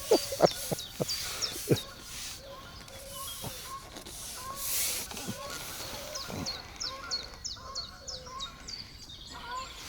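Birds calling: a short call repeated about twice a second, joined near the middle by a quick run of high falling notes from a songbird. A few sharp knocks come in the first two seconds.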